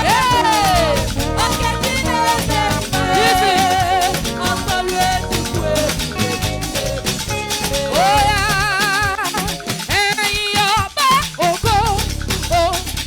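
Upbeat church praise music: drums and shakers keep a fast, steady beat under a melody line that glides and wavers with vibrato.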